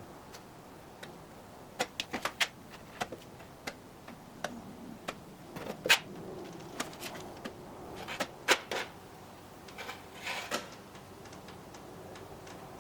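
Hand work with a spatula and epoxy fairing compound: irregular light clicks and taps, a couple of dozen of them, with a short scraping sound about ten seconds in.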